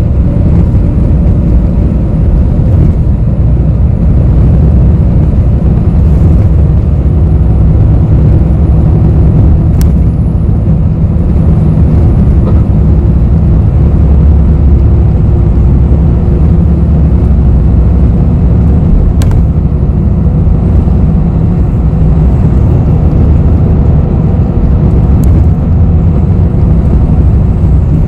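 Interior of a city bus on the move: a steady, loud low rumble of engine and road noise, with a few faint clicks about a third of the way in, two-thirds in and near the end.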